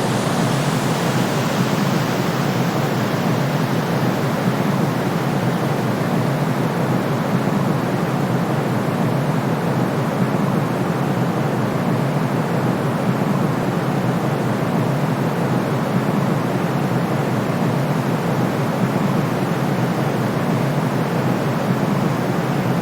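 Steady generated white noise for baby sleep, a constant deep hiss weighted toward the low end, without change or pause.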